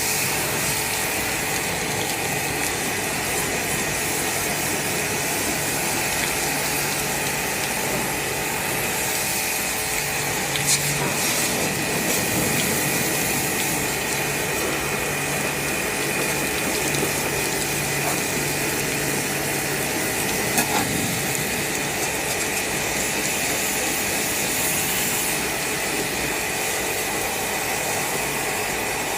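Steady mechanical running noise with a constant hum and whine, and a couple of sharp clicks partway through.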